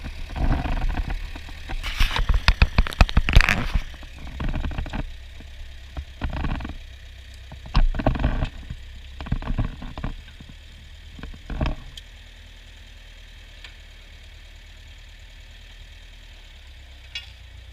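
Ford farm tractor engine running steadily under load while ploughing sod, a low even hum. Through the first twelve seconds, loud irregular bursts of noise come and go over it.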